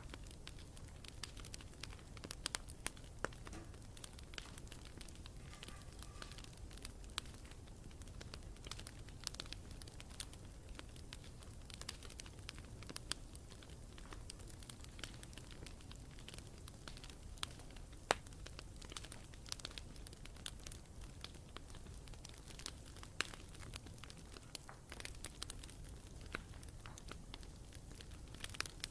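Campfire crackling: wood burning with many irregular sharp pops and snaps over a low steady rumble of flame.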